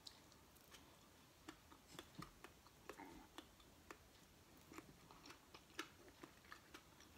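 Quiet chewing of a mouthful of soft Géramont cheese: faint, scattered wet mouth clicks and smacks.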